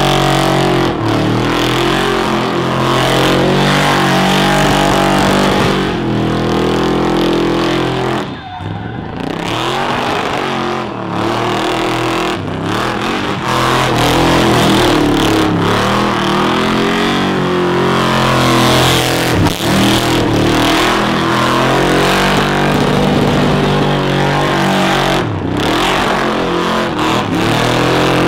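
Car engine held at high revs in a burnout, its pitch rising and falling as the throttle is worked, over the steady hiss of spinning tyres. The revs drop off briefly about eight seconds in before coming back up.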